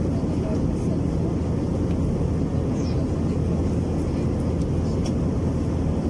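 Steady cabin noise of an Airbus A321-200 in its climb: a deep, even rumble of jet engines and airflow, heard from inside the passenger cabin.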